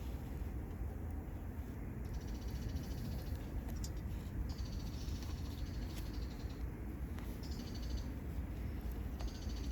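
Campfire burning, a low steady rumble with a few sharp crackles, while a high, rapidly pulsing animal call comes and goes in several bouts of a second or two.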